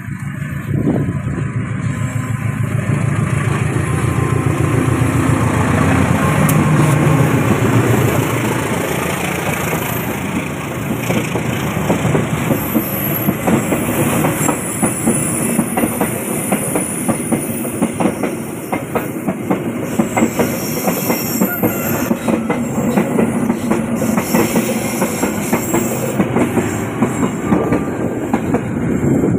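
Diesel-hauled train passing close by on a curve. The locomotive's engine rumble is loudest in the first several seconds, then a long run of rapid clickety-clack from the carriage wheels over the rail joints.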